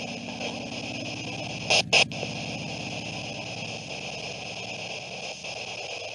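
Steady static hiss with a low buzz underneath that fades out after about four seconds, broken by two short loud bursts close together about two seconds in.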